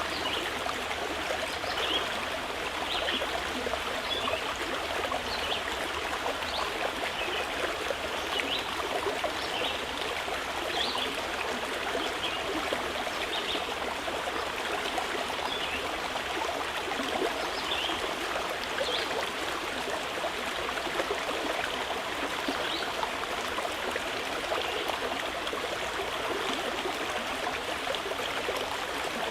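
Mountain river flowing steadily, a constant rush of water, with short high chirps of small birds scattered through it.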